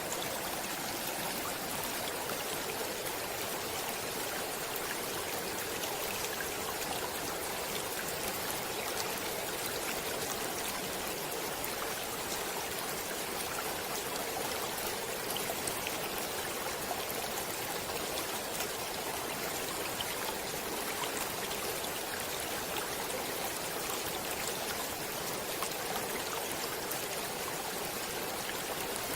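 Water flowing steadily in a stream: a continuous, even rush of running water with small splashes.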